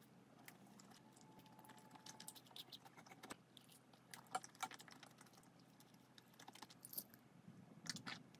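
Faint close-up chewing of a soft twisted doughnut, heard as scattered small clicks and crackles from the mouth.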